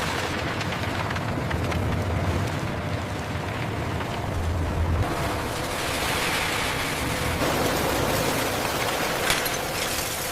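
Steady noise of heavy machinery running, with a low hum that gives way about five seconds in to a harsher, higher-pitched noise.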